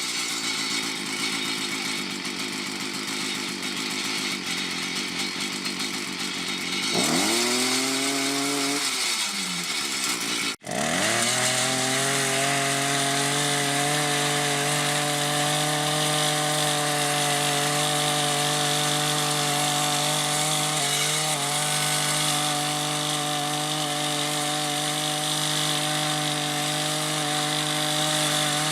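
Small gas engine of a Harbor Freight Predator cultivator running. About seven seconds in its pitch drops and climbs back, and after a brief cut it runs steadily at high speed.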